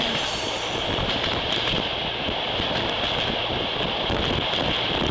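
Moving train heard at its window: a steady rumble of wheels on the track with wind on the microphone.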